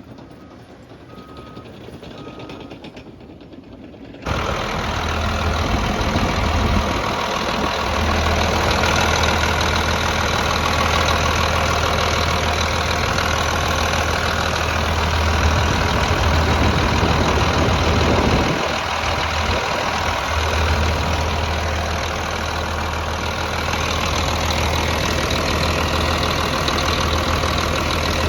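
Cat D6 XE bulldozer's diesel engine running: faint at first, then suddenly much louder about four seconds in, with a steady low drone.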